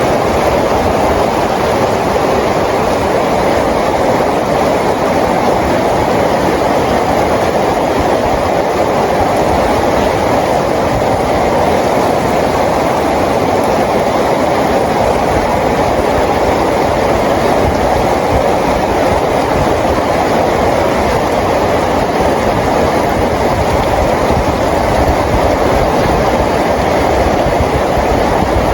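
Steady rain falling: a dense, even wash of noise that holds unchanged throughout, with no separate drops, gusts or pauses standing out.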